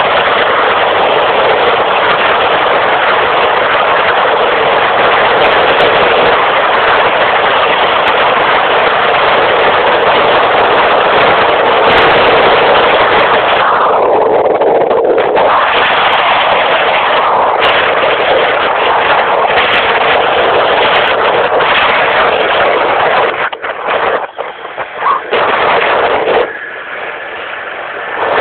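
Motorcycle riding at high speed: loud, distorted engine and wind noise that falters and drops lower a few seconds before the end.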